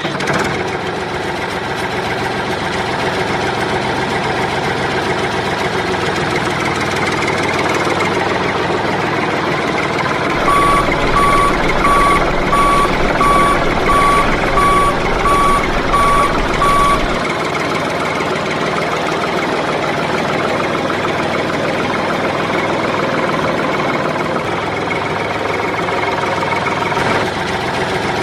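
Mini tractor engine running steadily. About ten seconds in, a reversing alarm beeps about ten times at an even pace over some six seconds while the engine note gets a little louder, then the engine runs on alone.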